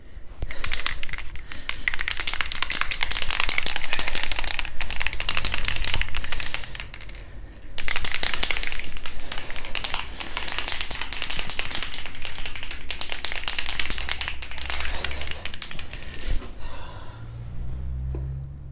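Aerosol spray-paint can being shaken hard, its mixing ball rattling rapidly inside, in two long bouts with a short pause between.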